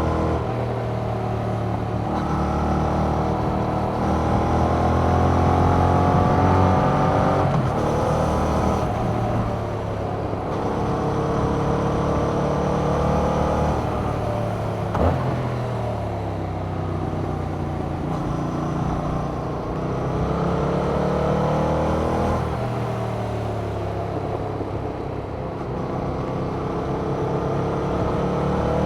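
2021 Yamaha MT-07's parallel-twin engine through its stock exhaust, revving up through the gears and dropping back several times, with long stretches of falling pitch as it slows, under wind noise. There is a single sharp click about halfway through.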